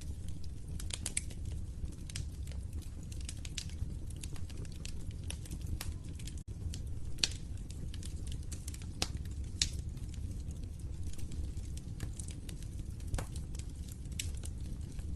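Wood fire crackling in a fireplace: irregular sharp pops and snaps over a steady low rumble of burning. The sound drops out for a split second a little before halfway.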